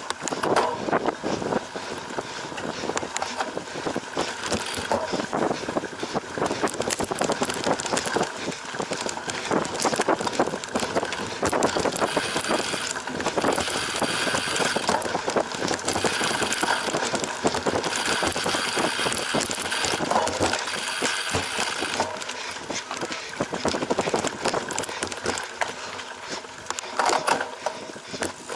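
Cyclocross bike ridden hard off-road: a continuous dense rattle and clatter of the bike and its tyres over rough ground, with rushing noise.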